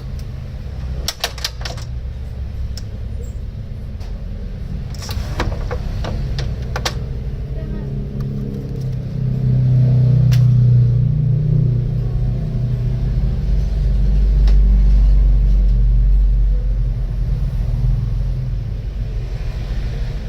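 GK-Tech 868 paper cutting machine running with a steady low hum that swells louder twice, around ten and fifteen seconds in. Sharp clicks come in the first few seconds.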